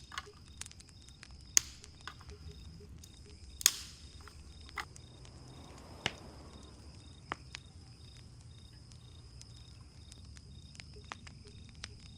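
Crickets chirping steadily, a high continuous trill with a pulsing chirp beneath it. A few sharp pops and clicks break in, the loudest about three and a half seconds in.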